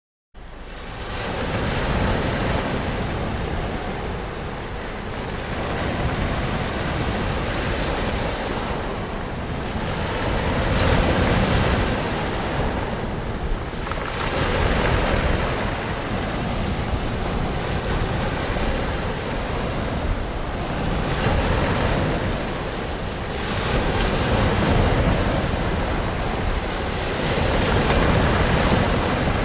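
Ocean surf: a continuous wash of breaking waves that swells and eases every few seconds. It cuts in suddenly after a split second of silence.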